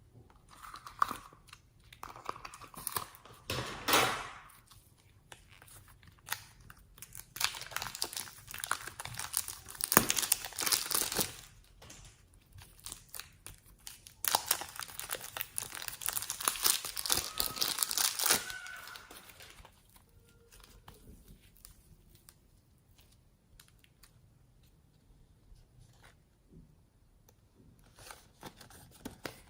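Slime being squeezed, stretched and mixed by hand, crackling and crinkling in dense spells, then settling to faint scattered clicks for the last third.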